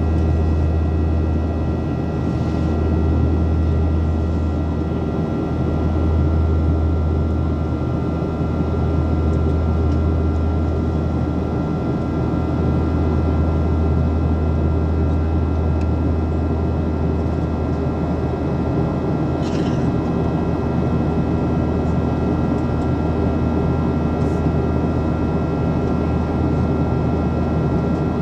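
Boeing 737 cabin noise in flight: a steady engine drone with a strong low hum and a few thin, steady high tones over it. There are faint brief clicks a couple of times.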